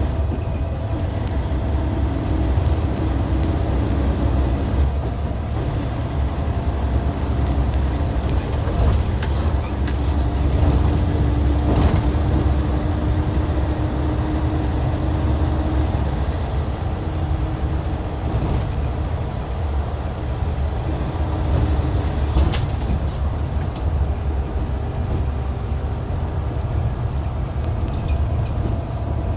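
Hyundai D6CC Powertec 380 inline-six diesel of a Hyundai Universe Comfort coach running steadily, a deep even drone. A few short sharp clicks or hisses cut in about ten seconds in and again a little past twenty seconds.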